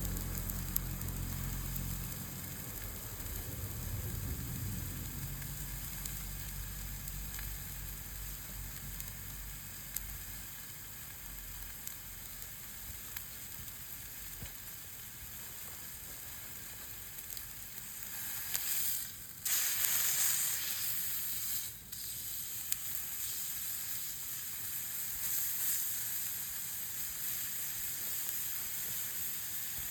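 Meat sizzling as it grills over a campfire, a steady hiss with scattered small pops. The sizzle swells louder for a few seconds about two-thirds of the way in.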